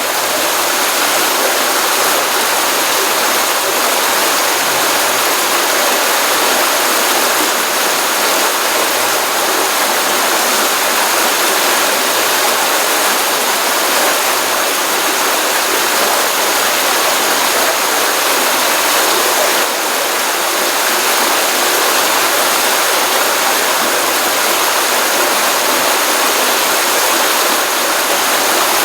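Stream water running continuously, a steady dense rushing and splashing flow with no pauses.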